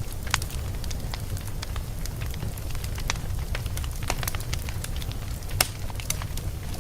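Wood fire of burning logs in a fireplace, crackling with irregular sharp pops over a steady low rumble of the flames; one pop about five and a half seconds in is louder than the rest.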